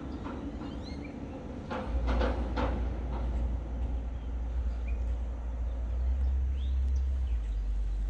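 Riverside outdoor ambience: a steady low rumble that grows louder about two seconds in, a few brief clatters close by, and several faint short bird chirps.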